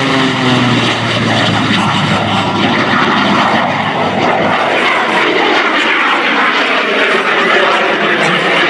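Radial piston engine of the Jet Waco, a modified 1929 Taperwing Waco biplane, running loud as the plane flies past. Its engine note drops in pitch as it passes, with a second falling sweep later on.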